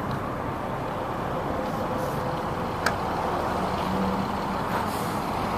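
Steady motor-vehicle noise with a single sharp click about three seconds in.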